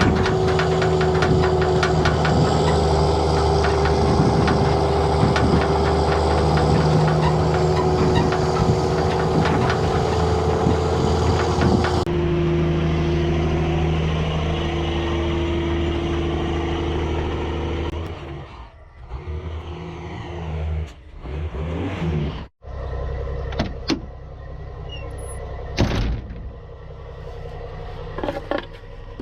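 Mack semi-truck's diesel engine running steadily under way, heard as a constant drone with level tones. The sound changes suddenly about twelve seconds in, then breaks up through several abrupt cuts in the second half, with a few sharp knocks near the end.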